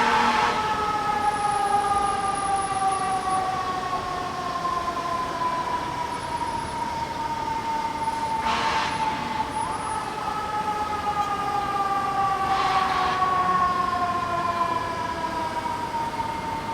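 A siren wailing: its pitch sinks slowly for about ten seconds, climbs quickly, then sinks slowly again.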